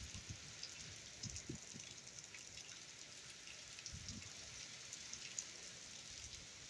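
Hurricane rain falling steadily: a faint, even hiss with scattered drop ticks, and a few short low thuds, the strongest about four seconds in.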